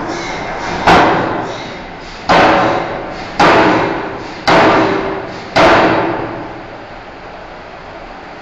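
Forging hammer striking a steel bar in five heavy blows about a second apart, each blow ringing out before the next.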